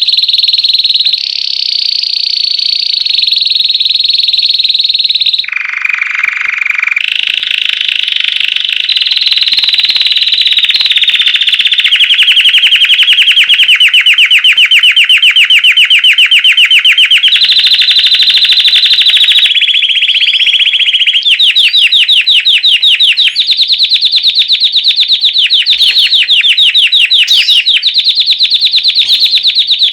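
Belgian canary singing loudly and without a break in the classic bell-like 'campainha' style, one rapid trill running into the next. About six seconds in there is a short, lower, deeper phrase, and in the second half the trills are very fast and evenly pulsed.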